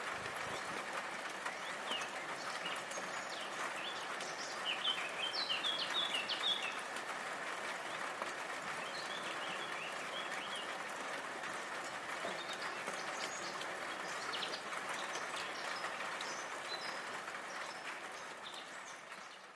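Steady hiss of rain with small birds chirping over it: a quick run of chirps about five seconds in, another around nine seconds, and scattered single chirps later. It all fades out near the end.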